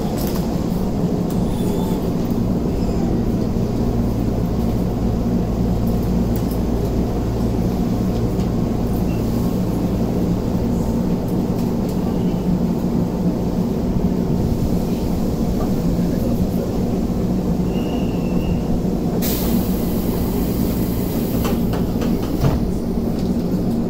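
Keisei 3500 series commuter train heard from inside the carriage, running with a steady rumble and hum, and drawing into a station; a short burst of hissing comes about 19 seconds in.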